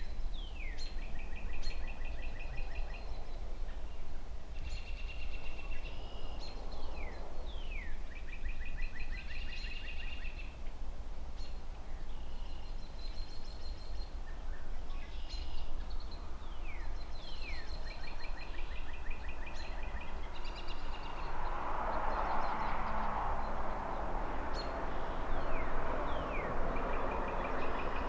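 A songbird repeating the same short song about every four seconds: a few quick down-slurred notes, then a fast trill. Under it is a steady low rumble of city traffic, and a passing car swells in over the last quarter.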